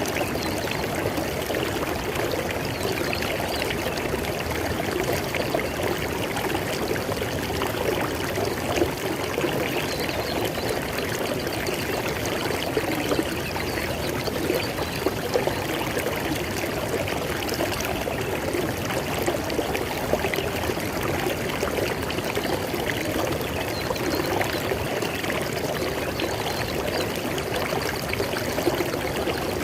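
River water flowing steadily over rocks: an even rushing with small splashes and gurgles.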